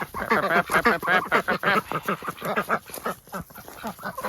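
Ducks quacking in rapid, overlapping calls, with a short lull about three seconds in.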